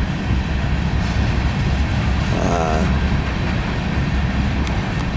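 Norfolk Southern mixed-freight train's cars rolling past on the rails, a steady low-pitched running noise.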